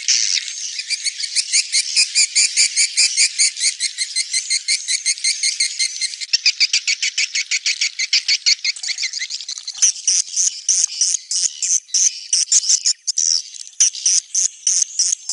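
Swiftlets twittering in a fast run of high, evenly repeated chirps, about five or six a second, breaking into shorter bursts with gaps in the second half. This is a 'netral' (neutral) swiftlet lure sound, the kind of call recording played to draw swiftlets to a nesting house.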